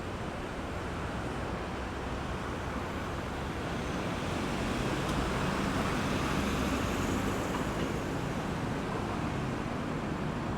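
Road traffic: a steady wash of tyre and engine noise with a low hum, growing louder for a few seconds around the middle as a vehicle passes close.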